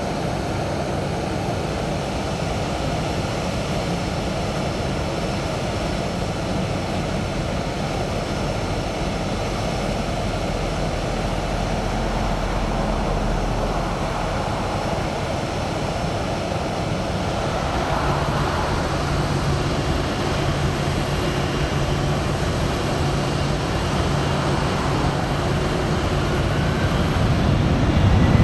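Jet aircraft engines running, a steady rushing noise. A low hum joins about two-thirds of the way through, and the sound grows louder near the end.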